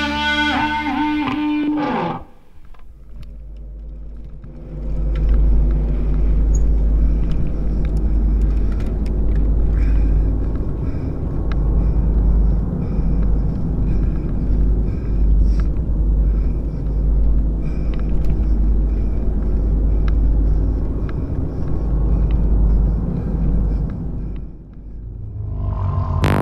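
Wind rumbling on the action-camera microphone with the noise of a mountain bike ride on a dirt trail, scattered light rattles and clicks over a steady deep rumble. A guitar song ends about two seconds in, and new music fades in near the end.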